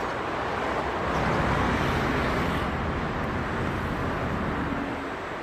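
Road traffic: the noise of a passing vehicle swells about a second in and slowly fades, over a steady background of engines.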